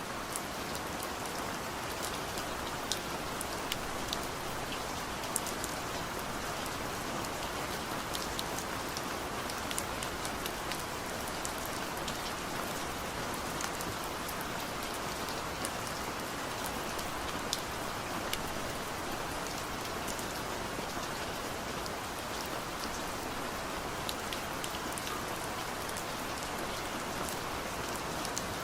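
Heavy rain falling steadily, a dense even hiss with many sharp individual drop ticks scattered through it.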